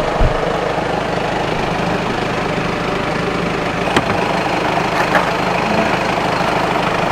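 Audi 2.0 TDI diesel engine idling steadily, left running to keep the oil hot for draining. A few knocks and clicks stand out, a low thump just after the start and two sharp clicks at about four and five seconds in.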